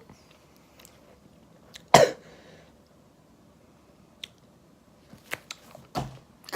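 A person's short cough-like outburst about two seconds in while tasting a drink he finds disgusting, followed by a few faint clicks and mouth noises.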